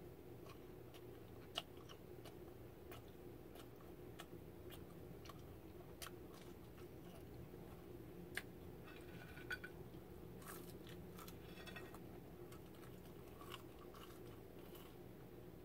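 Faint chewing of a chicken nugget: soft, scattered mouth clicks and small crunches over a low steady hum.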